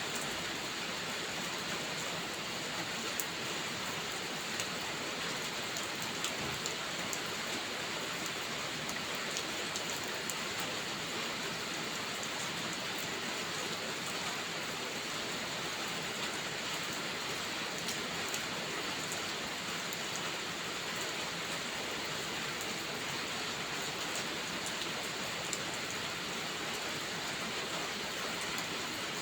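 Steady, dense rainfall with scattered sharp drop ticks through it.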